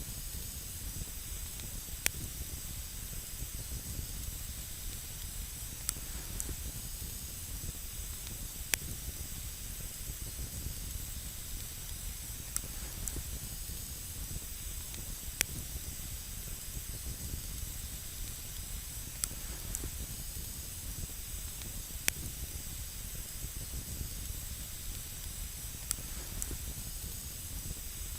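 Campfire burning, with a steady hiss and sharp, scattered crackles every second or two.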